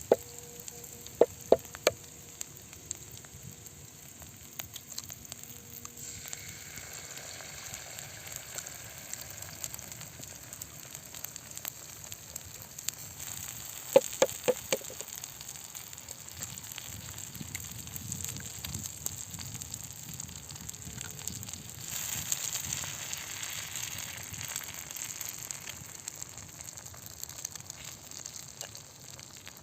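Vegetable omelette sizzling in a pan over a campfire, a steady hiss that swells about three quarters of the way through. Quick runs of sharp clicks come about a second and a half in and again about halfway through.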